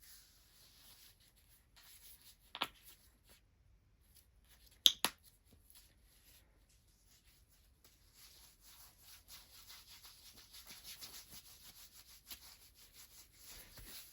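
Hands rubbing and massaging bare feet: a soft skin-on-skin rubbing that grows busier and more rhythmic in the second half. There is one sharp click about two and a half seconds in and a quick pair of louder clicks about five seconds in.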